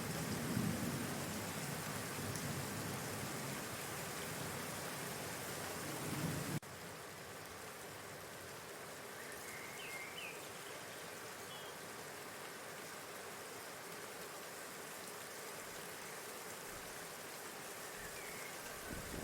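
Steady hiss of rain, which drops abruptly in level about six and a half seconds in, with a few faint, brief bird chirps in the second half.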